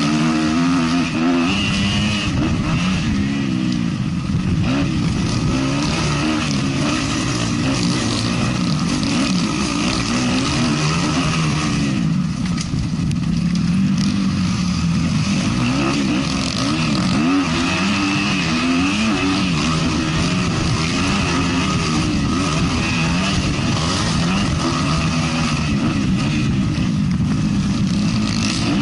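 450-class motocross bike engine racing, revving up and down continually as the throttle opens and closes, with a short easing off about halfway through.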